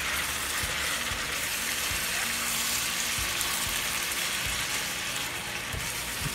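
Chopped fresh tomatoes sizzling in hot palm oil in a stainless steel skillet, a steady hiss as they are stirred with a wooden spoon.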